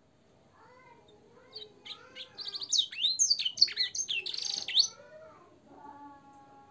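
Canary singing. Soft warbling builds into a loud, fast run of high trills and sharp whistles, then drops back to quieter, lower warbling notes near the end. It is the fancy song of a canary filled with blackthroat and sanger phrases, used for song training.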